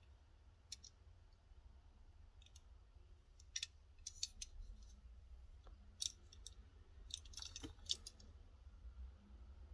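Faint scattered clicks and light taps from a die-cast model car being handled and turned over, bunched about three and a half seconds in and again near the end.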